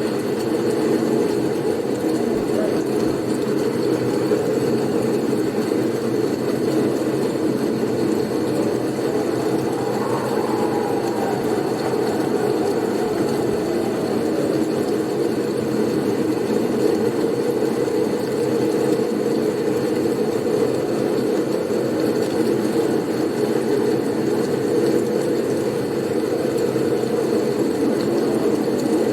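Blizzard wind sound, a steady low rushing noise with a faint whistle that rises and falls about ten seconds in.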